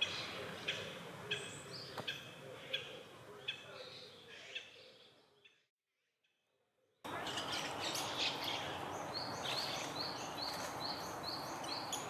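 Wild birds calling in woodland: short, repeated high chirps over a steady background hiss. The sound fades out about five seconds in and is silent for a moment. It then resumes with a louder hiss and a quick, evenly spaced series of high calls.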